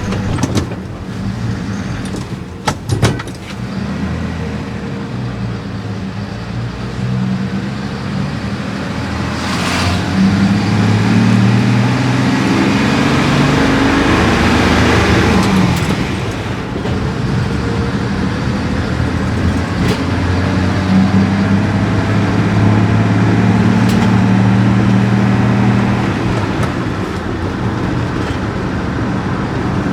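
Stock 1969 Nissan Cedric Wagon 6's L20A inline-six engine running through its standard exhaust, with a few sharp clicks about three seconds in. The engine note climbs about eight seconds in, holds steady for most of the rest, then falls near the end.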